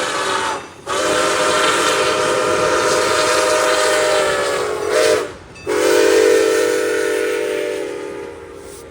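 Locomotive air horn sounding a chord of several notes in long blasts: one ends under a second in, a blast of about four seconds follows, then after a short break another long blast that fades away near the end.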